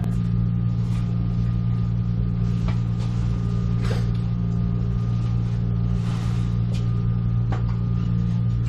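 A steady low mechanical hum with a faint higher tone over it, broken by a few light clicks and taps.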